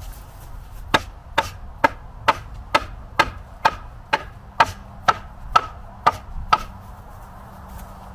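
A hammer striking metal about a dozen times, roughly two blows a second, each blow ringing briefly, then stopping about two-thirds of the way through.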